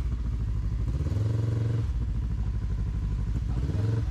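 Off-road vehicle engine running at low revs while crawling over rock. It is throttled up in two short pulses, one about a second in and a briefer one near the end.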